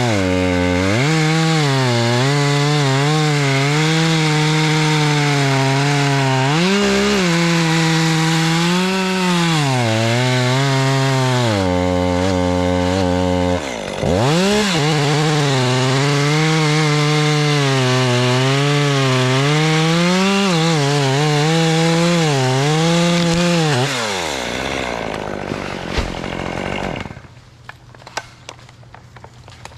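Chainsaw cutting hickory, the engine's pitch wavering up and down as it works under load in the cut. It dips briefly about halfway through, then winds down and stops a few seconds before the end.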